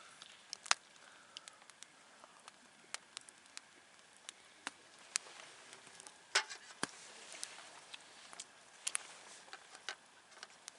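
Wood campfire crackling: irregular sharp pops and snaps over a faint hiss, with louder pops a little under a second in and past the middle.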